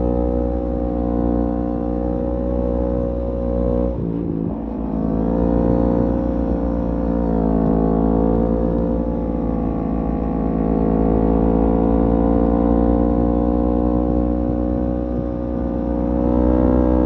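Kawasaki Z250 parallel-twin engine running through a SeaPro aftermarket muffler at a steady cruise. About four seconds in the note breaks briefly and drops in pitch at a gear change, then climbs steadily; it dips and rises once more about eight seconds in.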